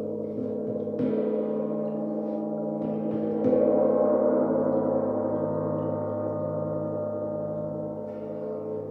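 Layered ringing tones of struck metal sound-healing instruments, gong-like, hanging and slowly fading. Fresh strikes come about a second in and again about three and a half seconds in, the loudest, with a slow wavering in the low hum.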